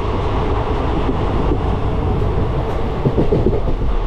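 Passenger train's sleeper coach running along the track, heard through an open coach doorway: a steady rumble of wheels on the rails.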